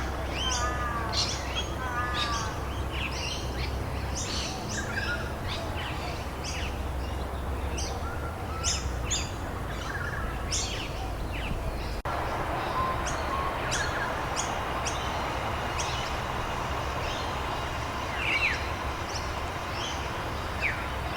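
Several birds chirping and calling, many short high chirps and whistles, over a steady background hiss and low rumble. The background changes abruptly about twelve seconds in.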